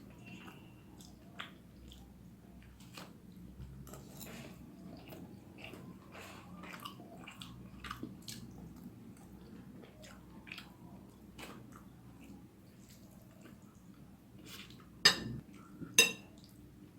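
Close-up chewing of spicy vegetable noodles: soft wet mouth clicks and smacks with short pauses. Two loud sharp knocks near the end, about a second apart.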